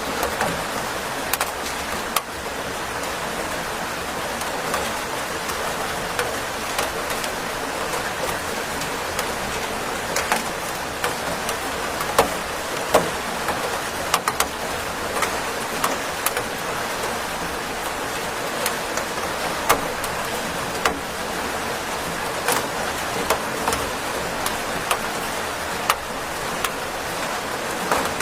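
Steady heavy rain falling, a dense hiss with many sharp individual drops ticking and splattering irregularly on a hard surface.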